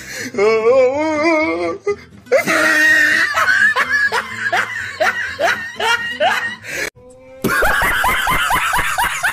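Hearty laughter in repeated 'ha-ha' bursts over background music, in three stretches with short pauses between them.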